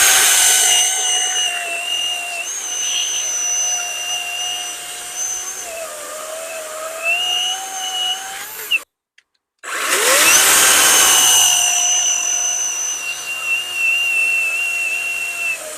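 Worx WG385E cordless electric chainsaw cutting through a hard, dried acacia log about 23 cm across: a steady high motor whine that sags in pitch as the chain bites. The sound drops out completely for under a second past the middle, then the saw spins back up with a rising whine and keeps cutting.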